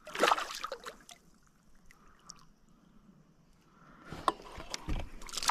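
Water splashing as a hooked peacock bass (tucunaré) thrashes at the surface while fighting the line: a burst of splashing at the start, a quiet stretch, then more splashing with a couple of sharp knocks from about four seconds in.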